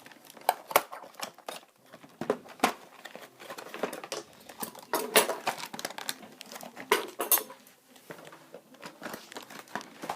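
Small hard plastic toy packaging being handled and pried open by hand: irregular clicks, taps and crinkling rustles of plastic.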